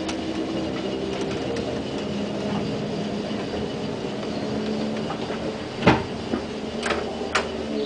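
Atlas 2.5-ton battery mine locomotive running on a 12-volt test supply: its single General Electric traction motor and spur gears give a steady gear whine. A few sharp clanks come near the end, the first the loudest.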